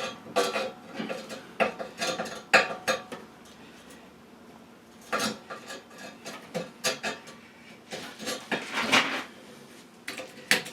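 Metal clanking and clinking: a homemade bent metal exhaust hanger bracket knocking against the exhaust pipe as it is held and positioned for a test fit. The knocks are irregular and ring briefly, with a quieter pause a few seconds in.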